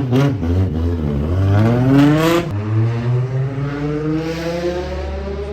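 Car engine accelerating: its pitch climbs, drops suddenly at a gear change about two and a half seconds in, then climbs steadily again.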